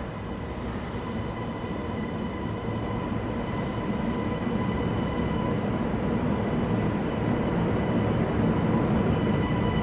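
Beijing Subway Line S1 medium-low-speed maglev train approaching the platform, its running noise growing steadily louder, with a steady high whine over it.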